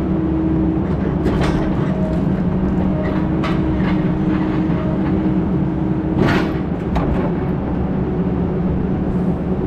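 Heavy equipment's diesel engine running steadily, with a few sharp knocks and rattles over it.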